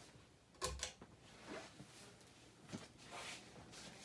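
Casablanca Brescia ceiling fan with an XLP motor, just switched to high speed and spinning up quietly, with faint airy swishes. A sharp knock with a low thud comes less than a second in, among a few lighter clicks.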